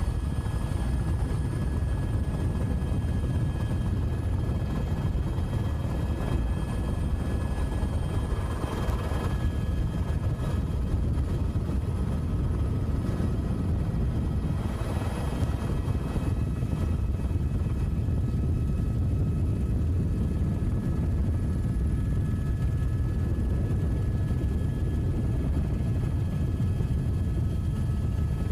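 An engine running steadily at an even pitch, with a low rapid throb and a few faint steady whines above it.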